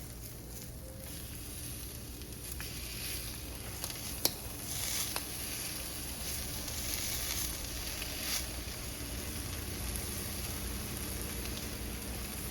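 Quesadillas sizzling on a hot griddle: a steady frying hiss, with one sharp click about four seconds in.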